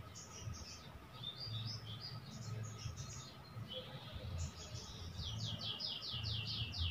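Small bird chirping and twittering in short high notes, ending with a quick run of about nine falling notes.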